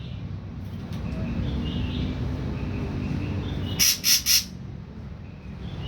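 Ashy drongo calling: three harsh, rasping notes in quick succession about four seconds in, with faint thin chirps scattered around them, over a steady low rumble.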